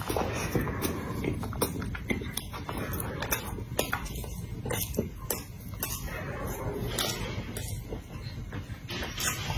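Close-miked eating: chewing and wet mouth smacks, with frequent irregular clicks.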